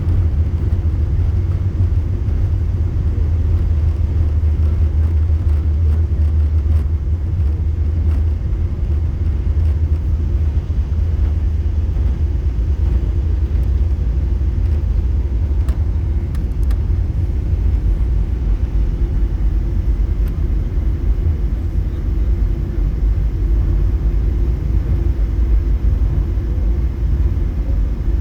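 Steady low rumble of a Boeing 747-8 airliner's GEnx engines and airflow during its approach, even and unbroken throughout.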